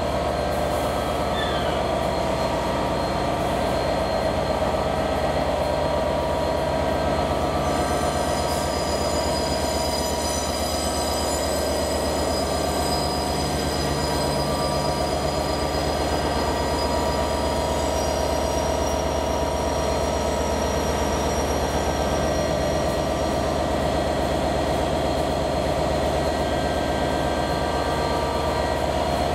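Train running, a steady drone throughout. A cluster of high, thin whistling tones joins in about eight seconds in and dies away about two-thirds of the way through.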